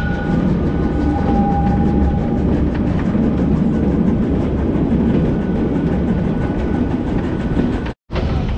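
Heritage steam train's carriages running along the track, heard from on board: a steady low rumble of wheels on rail with faint regular clicks, and a thin high squeal that fades out over the first two seconds or so. The sound breaks off for a moment near the end.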